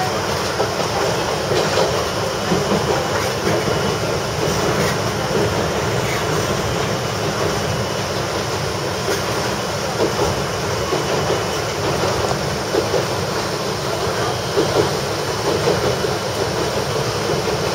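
Running noise inside the cab of a Kominato Railway diesel railcar under way: engine drone with the steady rumble of wheels on rail and irregular knocks and rattles over rough, poorly kept track.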